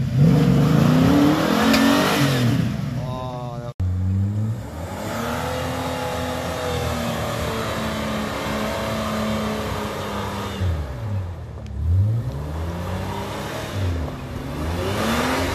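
Off-road 4WD engines revving under load in mud. A GQ Nissan Patrol revs hard for the first couple of seconds. After a cut, a second four-wheel drive's engine revs up and down again and again as it works through a deep rut on a winch line.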